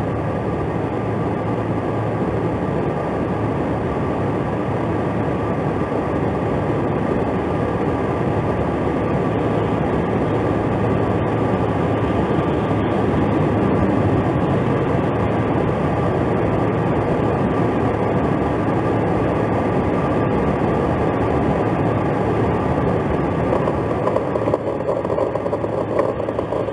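Steady engine and road noise, heard from inside a stopped police patrol car with its engine running, while traffic passes on the snowy highway. The noise rises a little toward the middle.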